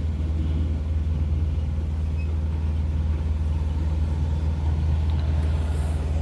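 Truck engine idling: a steady low rumble with no change in pitch.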